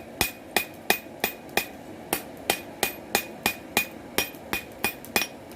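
Cross-peen hammer striking hot steel on an anvil in a steady run of about three ringing blows a second, drawing out a knife blade. The blows stop a little before the end.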